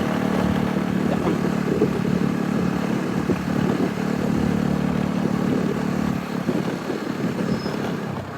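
A small engine running steadily with a low hum, dropping away about six seconds in.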